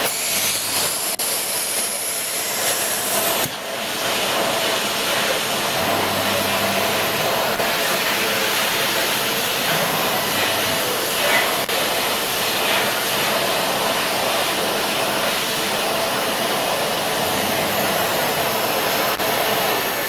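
CNC milling-engraving machine running, its high-speed spindle giving a steady whine and hiss, with a brief dip about three and a half seconds in.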